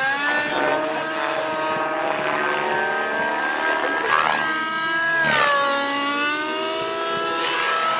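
Radio-controlled model helicopter in flight, its motor and rotor whine rising and falling in pitch as it manoeuvres, with a sharp dip about five seconds in.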